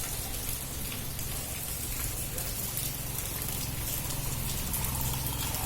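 Storm of strong wind and heavy rain, a steady dense hiss, with a low steady hum underneath.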